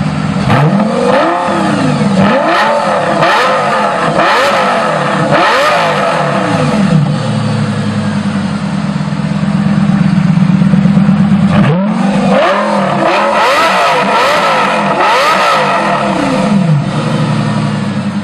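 Lamborghini Aventador with a mufflerless straight-pipe exhaust, stationary and being blipped: a run of quick revs that rise and fall, settling to a steady idle, then a second run of revs about twelve seconds in before it drops back to idle.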